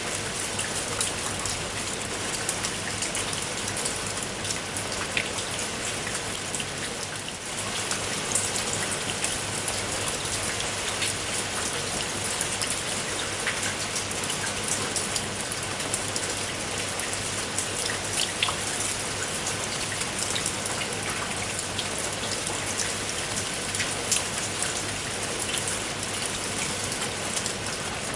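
Steady rain falling, many separate drop ticks over an even hiss. The level dips briefly about seven seconds in, then holds steady again.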